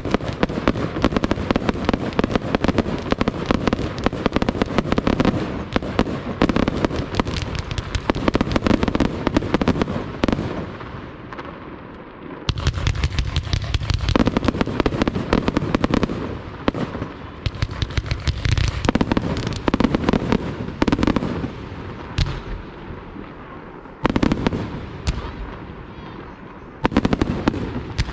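Fireworks display: dense, rapid crackling bangs in volleys. The barrage thins about ten seconds in, then fresh salvos break out again and again.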